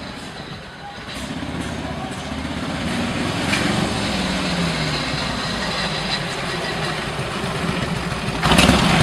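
Motorcycle engine running and growing louder, with a brief louder surge near the end.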